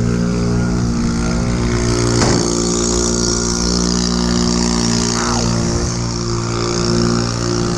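An engine running steadily at one speed, with a rushing hiss through the middle of the stretch.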